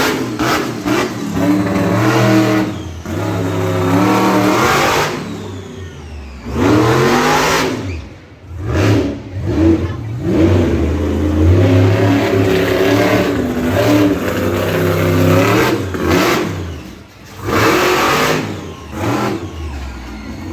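Monster truck engine revving hard in repeated bursts, its pitch climbing and falling as the throttle is worked, with two brief lulls in between.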